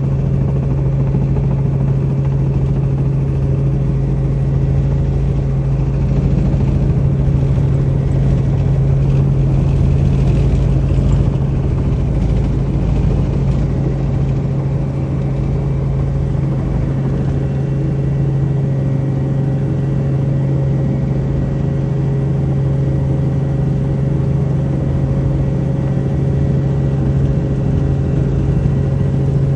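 Helicopter in flight heard from on board: a loud, steady drone of turbine engine and rotor with a strong low hum that holds unchanged throughout.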